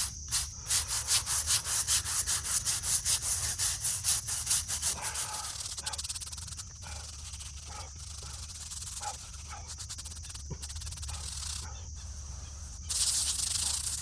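Stiff brush scrubbing a gravestone wet with masonry cleaner, in fast back-and-forth strokes about four a second. The strokes stop about five seconds in. A steady hissing scrub starts again near the end.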